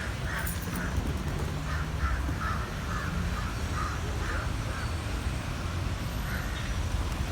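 A bird's short calls repeating about two a second for some five seconds, with one more call near the end, over a steady low rumble.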